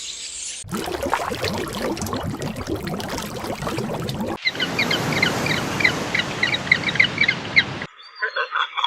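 Birds calling in a series of abruptly cut clips. First comes a dense, noisy chorus of many overlapping calls, then a run of short, high chirps repeated several times a second.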